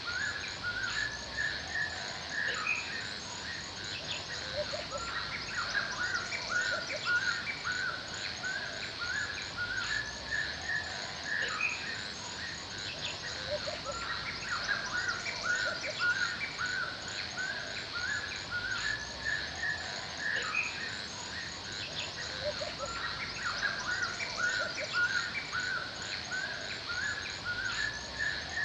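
Forest ambience: a chorus of many birds chirping and calling continuously, over a steady high-pitched insect drone.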